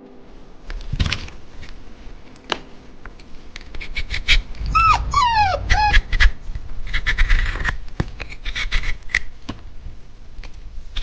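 A puppy whimpering: three or four short falling whines about midway, amid scuffling clicks and knocks.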